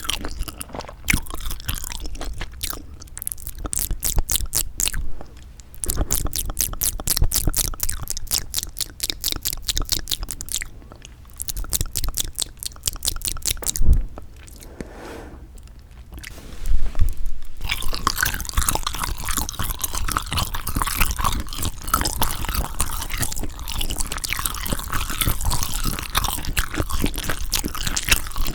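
Close-miked chewing of sundae (Korean blood sausage): rapid clicky, crunchy mouth sounds broken by a few short pauses, turning into denser, more continuous chewing a little past halfway.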